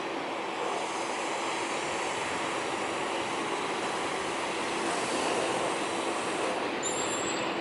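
Jet airliner engine noise, a steady rush with a faint underlying hum and a brief high whine near the end.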